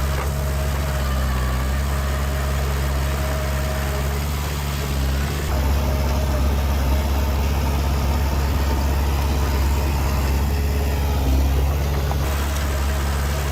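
Heavy diesel engine of construction machinery running steadily, with slight shifts in its note about five and a half seconds in and again about eleven seconds in.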